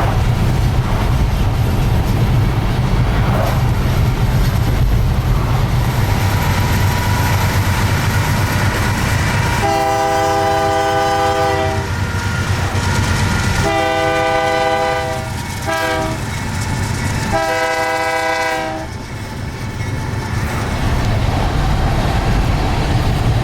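Diesel freight train running with a steady heavy rumble of locomotive engines and rail noise, then the lead locomotive's air horn sounds the grade-crossing pattern about halfway through: two long blasts, a short one and a long one.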